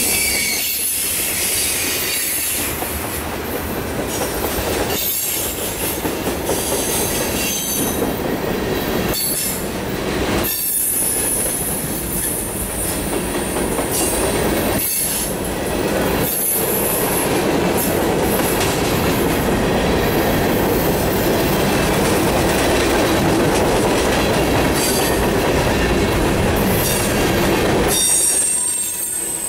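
Freight cars of a mixed freight train rolling past close by: steel wheels rumbling and clacking on the rails, with short dips in the noise as the cars go by and, now and then, a high-pitched wheel squeal.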